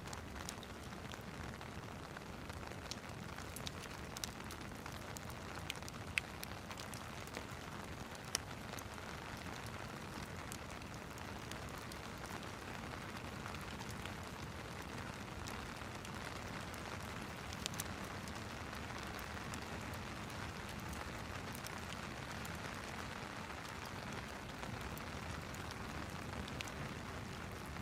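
Steady rain mixed with a crackling wood fire, with scattered sharp pops from the fire, the loudest about six and eight seconds in.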